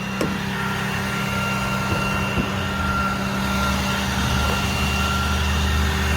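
2016 Ram 5500 service truck's engine idling with the PTO engaged to drive the hydraulics: a steady run with a constant high whine over it, the low rumble swelling slightly about halfway through.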